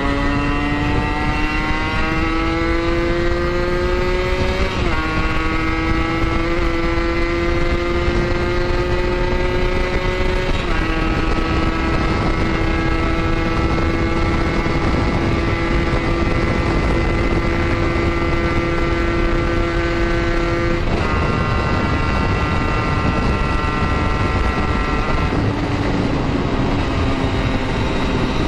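Kawasaki Ninja 150 RR's single-cylinder two-stroke engine pulling under way, its note climbing, with sharp drops at upshifts about five and eleven seconds in, then holding steady at cruising speed. About twenty seconds in the engine note falls away as the throttle eases off, and it comes back at a lower pitch a few seconds later. Wind rushes over the microphone throughout.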